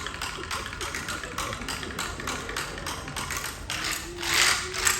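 Tap shoes striking a stage in a fast, even rhythm of about five taps a second. Louder, longer hits come in from about four seconds in.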